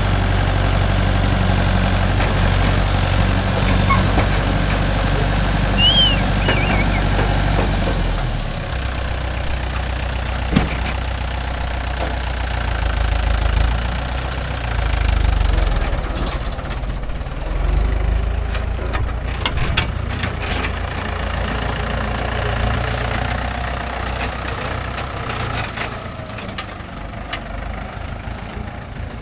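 Diesel engine running steadily, its low hum changing pitch about eight seconds in, with scattered knocks and clanks through the second half.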